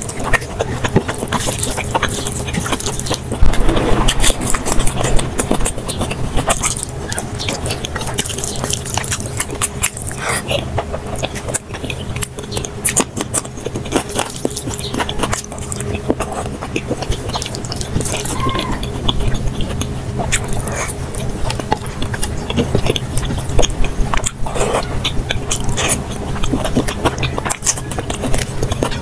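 Close-miked eating sounds sped up to double speed: rapid chewing, lip-smacking and squelching of rice and curry, with a steady low hum underneath.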